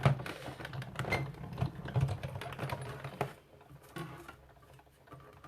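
Irregular light clicks and taps, handling of card stock and a metal cutting die, busiest in the first three seconds, then only a few faint taps.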